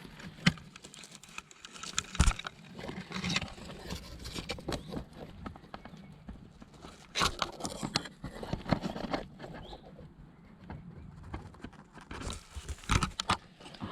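Close rustling and crackling of grass, nettle and bramble stems being pushed aside and handled by hand. It comes in irregular clusters of snaps and rustles, loudest about two seconds in, again around seven to nine seconds, and near the end.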